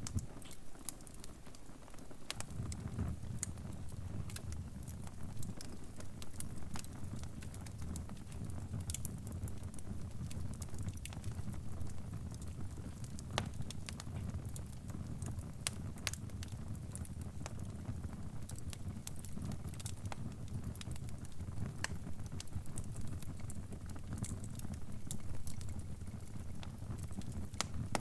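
Crackling fire: irregular sharp pops and snaps over a low steady rumble, which gets a little fuller about two seconds in.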